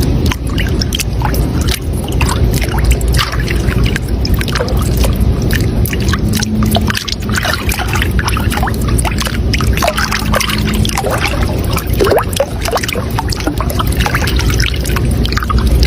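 Running water babbling and trickling steadily, with many small splashes, like a stream flowing over stones.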